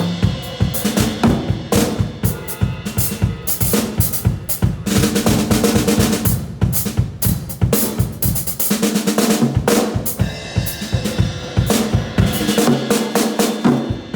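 Drum kit played with mallets: rapid strokes and rolls across the drums and bass drum, with pitched tom tones, ringing out in a large, high-ceilinged room.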